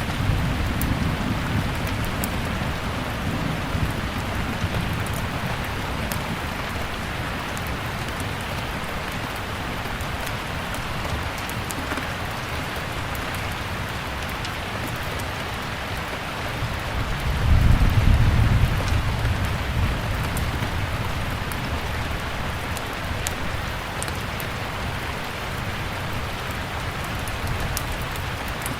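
Steady rain hissing, with sharp scattered crackles from a wood fire. A deep low rumble is heard at the start and swells up again a little past halfway.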